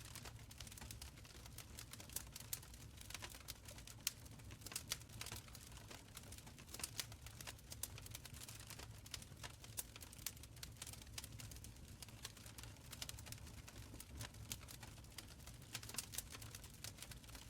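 Wood fire crackling in a stone fireplace: irregular sharp pops and snaps over a soft low rumble of the flames.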